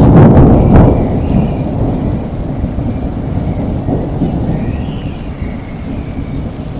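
Thunder rumbling over steady rain. The rumble is loudest in the first second and fades away over the next few seconds, leaving the rain.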